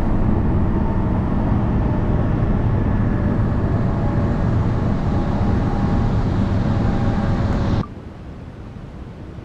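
Local train running, heard from inside the carriage: a steady rumble of wheels on rail with a faint steady whine. Near the end it cuts off suddenly to a quieter even hiss.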